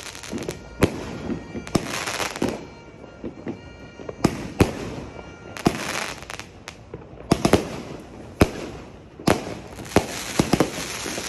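Multi-shot aerial fireworks firing: an irregular run of more than a dozen sharp bangs as shells launch and burst, with a crackling hiss of glitter stars between shots.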